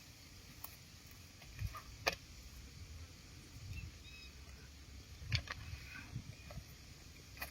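Faint scattered clicks and a few soft low thumps, with two sharper clicks about two seconds and five seconds in.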